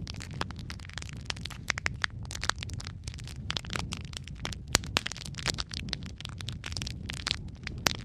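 Wood fire crackling in a fireplace: irregular sharp pops and snaps over a steady low rumble of flame, with one louder pop near the middle.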